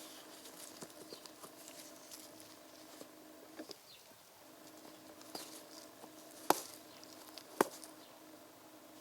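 A faint steady hum with scattered small ticks and taps, and two sharper clicks about a second apart in the second half.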